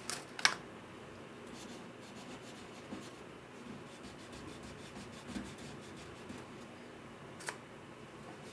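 Small handwork sounds at a workbench: faint rubbing with a few sharp clicks, two close together at the start and one near the end.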